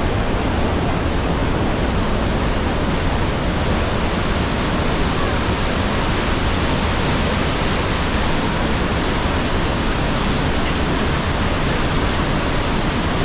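Loud, steady rush of the Rhine Falls' water pouring over the falls, an even, unbroken roar of falling water.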